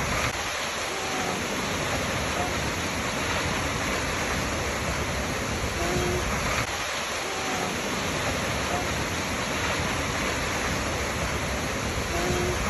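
Waterfall: a steady, even rush of falling water. A few faint short tones recur about every six seconds over it.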